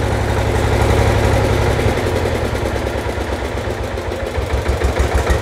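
Sifang 20 hp single-cylinder diesel engine running steadily, then slowing after being shut off: its firing beats grow farther apart and more uneven as it winds down.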